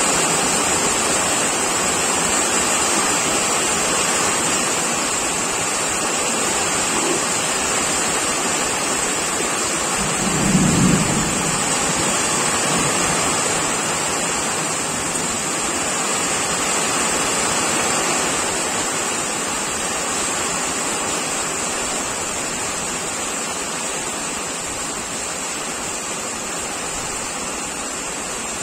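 Torrential rain pouring down onto a river: a steady, dense hiss of falling water. About ten seconds in there is a brief low thump.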